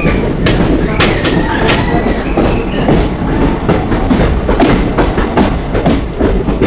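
Passenger train coach running on the track: a steady loud rumble with the wheels clattering over rail joints, and a few brief high squeals from the wheels in the first two seconds.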